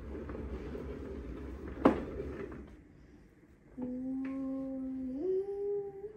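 A woman humming a held note that steps up to a higher note about five seconds in. Before that there is a low rumbling handling noise with a sharp click near two seconds.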